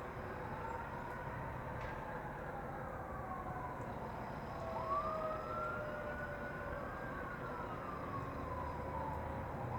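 Emergency vehicle siren wailing, its pitch rising and falling slowly over several seconds, with overlapping wails.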